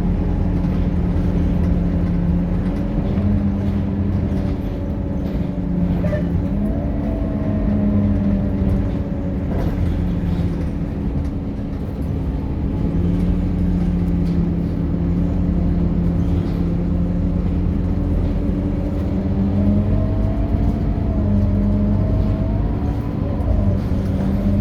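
Scania K230UB bus's diesel engine running steadily under way, with a fainter whine that rises and falls in pitch as the bus speeds up and slows, twice.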